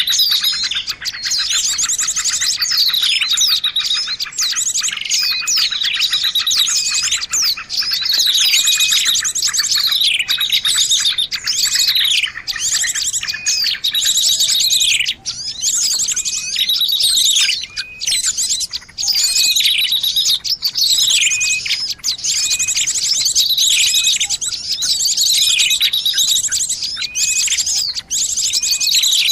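Small birds chirping and calling densely and noisily, with high-pitched falling whistles repeating every second or two over a rapid, chattering trill: a bird-lure recording meant to draw in birds.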